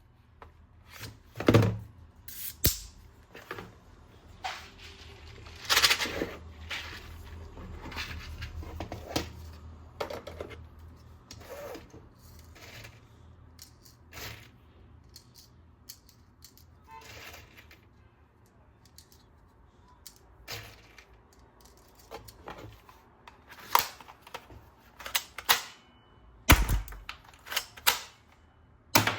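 Plastic toy guns and their packaging being handled: irregular clicks and rattles of plastic parts, with several louder knocks.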